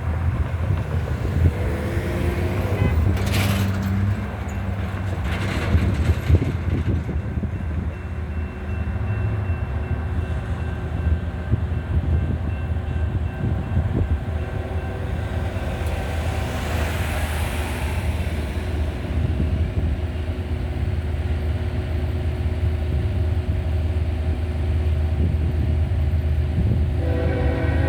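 Wind rumble on the microphone and road traffic passing over a railroad grade crossing as a train approaches. Near the end a locomotive air horn starts to blow.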